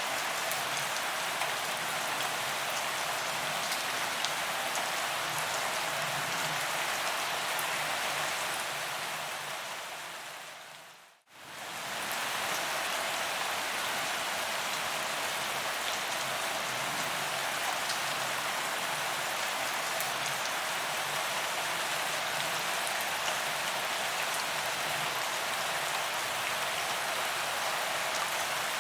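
Steady rain falling on a paved promenade, with scattered sharp drop ticks over an even hiss. It fades down to near silence about eleven seconds in, then comes straight back.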